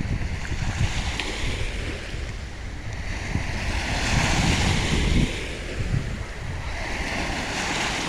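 Sea waves breaking and washing in, swelling to a peak about halfway through and again near the end, with wind buffeting the microphone.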